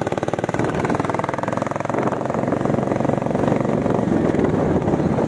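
Royal Enfield Bullet 350's single-cylinder engine running as the bike rides along, with an even, rapid exhaust beat.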